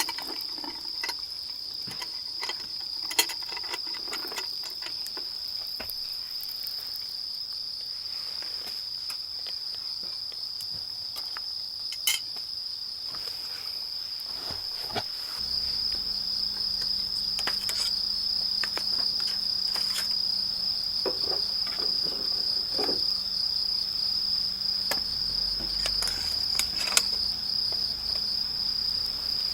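Insects trilling steadily in one continuous high-pitched chorus, with a few scattered light clicks and knocks. A faint low hum joins about halfway through.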